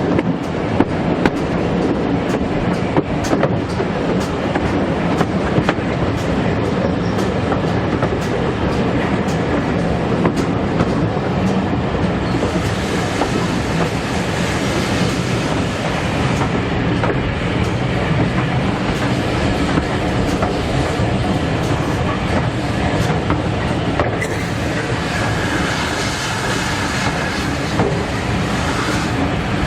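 Heritage steam-hauled passenger train running steadily along the line, heard from on board, its wheels clicking over the rail joints. Two stretches of higher hissing noise come in, about twelve seconds in and again near the end.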